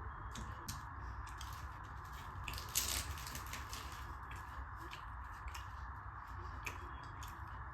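Close-miked mouth sounds of someone eating tandoori butter roti with dal: wet chewing with many short smacks, the loudest about three seconds in, over a steady background hum.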